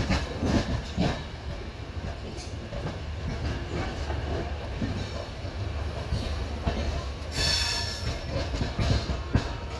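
Express train coaches running on the track, heard from the coach doorway: a steady low rumble with wheel clicks over the rail joints, and a brief high-pitched wheel squeal a little past halfway.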